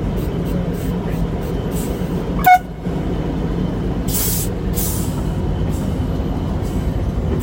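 Loaded log truck's diesel engine running steadily with road rumble. About two and a half seconds in there is one brief loud tone, and two short hisses follow around four and five seconds in.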